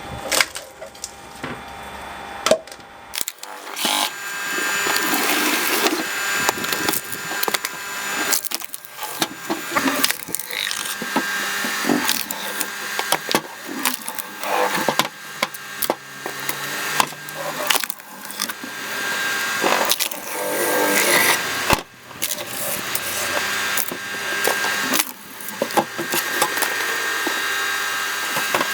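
Cone log splitter boring into a log, the wood cracking and splintering as the cone bursts it apart, with many sharp cracks over a steady machine hum. The splitting gets going about three seconds in.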